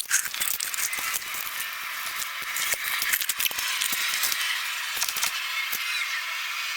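Scattered light metallic clinks and rattles over a steady hiss, the sound of metal parts and tools being worked as the engine is pulled free.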